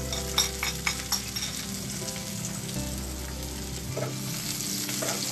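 Chopped garlic sizzling in hot oil in a wok as it is stirred, with a few light clicks of the spoon against the plate and pan in the first second or so.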